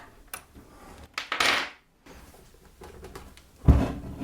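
Metal clicks and knocks from a bench pillar drill being adjusted, with a short scratchy rasp of metal sliding on metal about a second and a half in and a heavy thump near the end.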